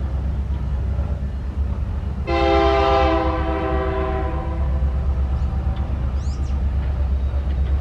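EMD SD70 diesel freight locomotive running with a steady low rumble. About two seconds in it sounds its air horn, a chord of several notes, in one long blast that trails off over the next three seconds.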